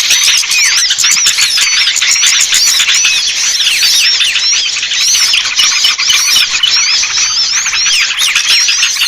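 Dense chorus of many small songbirds chirping and twittering at once, rapid overlapping high calls without a break: a bird-trapping lure recording meant to draw small birds down.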